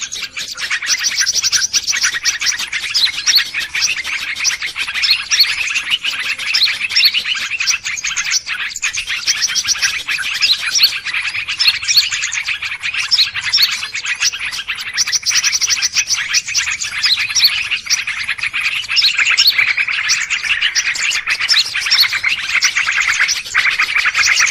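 A noisy commotion of many small birds chirping and calling over one another, with fast rattling trills now and then, the kind of bird-luring sound used to draw wild birds in.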